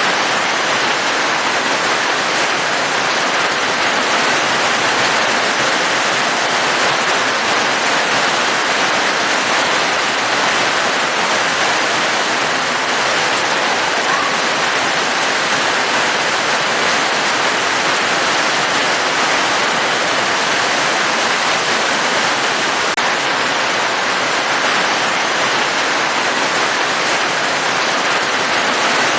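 Falling water hissing steadily and evenly, with no single drops or splashes standing out.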